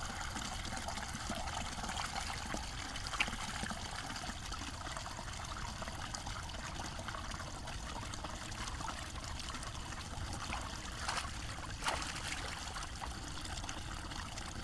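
Water trickling steadily, with a few faint knocks.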